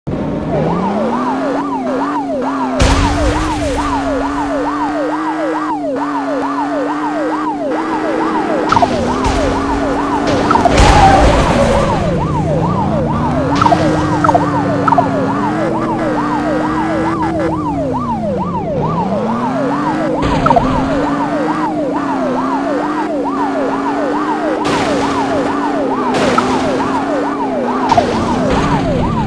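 Police car sirens sounding during a pursuit: a fast yelp repeating about four times a second over a slower rising-and-falling wail, with vehicle road noise beneath and a few brief thumps.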